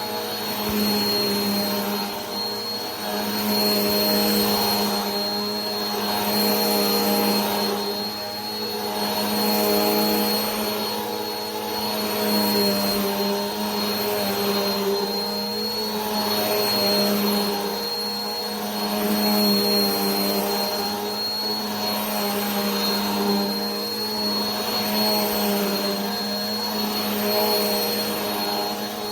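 Vacuum cleaner running continuously: a motor hum with a thin high whine, swelling and fading gently about every two to three seconds.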